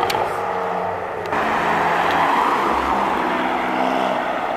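Two sports cars pulling away one after the other: a Ferrari F430's V8 engine driving off, then, about a second in, an Alfa Romeo Giulia accelerating away with its engine note stepping up.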